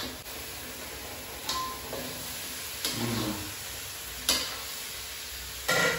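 Pieces of beef tongue sizzling as they fry in spice paste in a wok, stirred with a metal spatula that clinks against the pan a few times, the loudest clang near the end.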